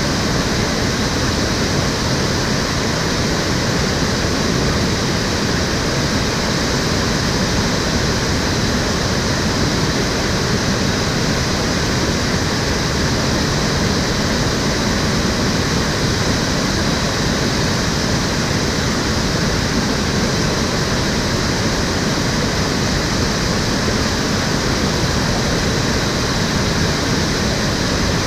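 Water flowing and splashing steadily in the Cheonggyecheon, an urban stream channel. The rush is loud and even, with no breaks.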